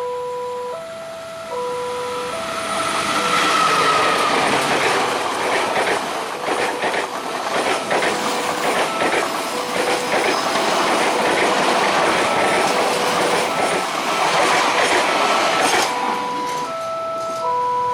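A train passing over a level crossing, its wheels clattering on the rails for about thirteen seconds. The crossing's electronic warning signal plays a repeating stepped chime, heard alone at the start and again near the end as the train's noise dies away.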